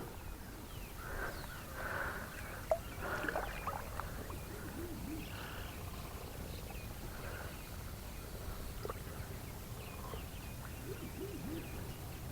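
Faint outdoor waterside ambience with scattered short wildlife calls and chirps, and a single small click a few seconds in.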